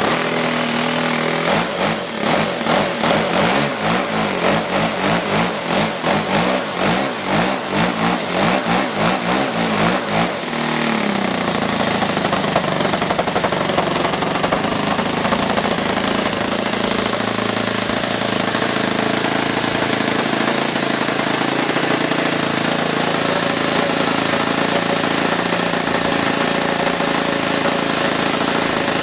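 Saito 80 four-stroke glow engine in a model aircraft running, its pitch and loudness wavering up and down for about ten seconds before it settles into a steady, even run, just after its valve clearances were set.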